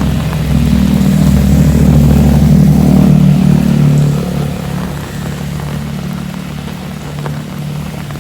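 A motor vehicle's engine running close by, loudest in the first half and then fading as it moves away, over the steady hiss of heavy rain.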